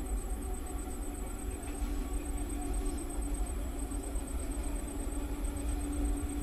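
Goods train hauled by an electric locomotive approaching along the track, heard as a steady low rumble with a faint hum.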